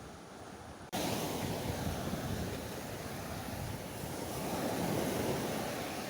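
Mediterranean surf washing on the shore with strong wind buffeting the microphone, a steady rushing noise. About a second in it jumps abruptly louder and fuller.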